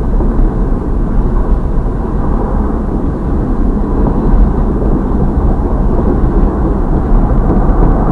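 CSX/NS double-stack intermodal freight train rolling past close by: a steady, loud low rumble, muffled as heard from inside a stopped car.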